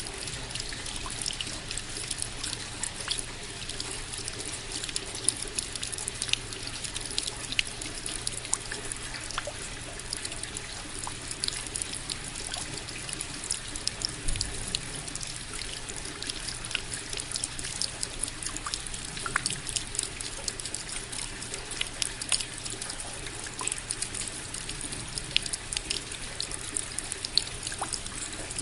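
Steady rain, with many individual drops ticking and dripping close by at irregular intervals over a continuous hiss.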